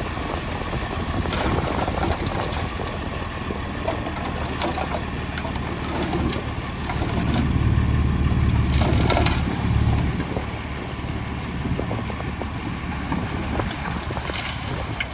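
Diesel engine of heavy earthmoving machinery running, swelling louder for a few seconds in the middle as it works under load, with a few short metallic clanks and squeaks.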